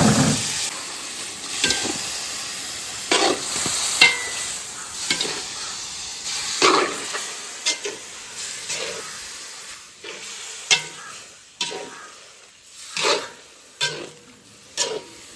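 Marinated meat and liver frying in hot oil, sizzling loudly at first and dying down, while a spoon scrapes and knocks against the pot as it is stirred.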